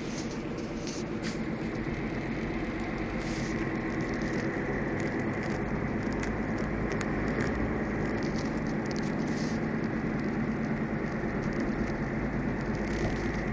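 Steady low hum inside a Ford Figo's cabin, under a constant rushing noise and faint scattered ticks, rising slightly in level: this is the humming noise the owner complains of.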